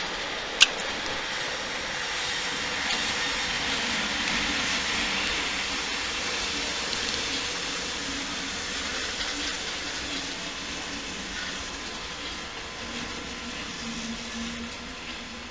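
Train moving through a station: a steady rushing rail noise that swells over the first few seconds and slowly fades. A single sharp click comes about half a second in, and a low steady hum comes in near the end.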